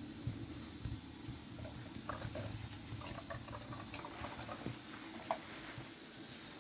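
Faint water or liquid sounds with scattered small clicks and ticks.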